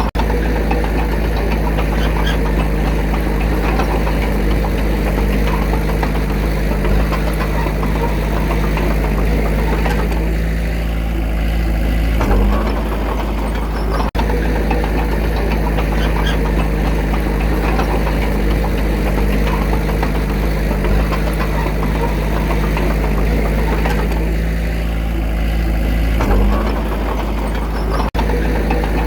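Diesel engine of heavy earthmoving machinery running steadily under work. The engine note shifts briefly about twelve seconds in and again near the end, as the load changes.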